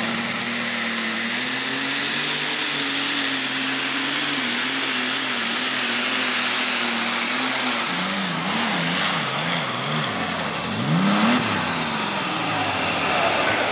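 Super stock pulling tractor's turbocharged diesel engine running flat out under load, with a high turbo whine that climbs in the first couple of seconds and holds. About eight seconds in, the engine's pitch surges up and down several times and the whine falls away.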